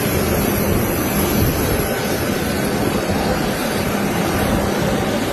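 Jet aircraft engines giving a loud, steady rushing noise that does not rise or fall, with a faint hum under it.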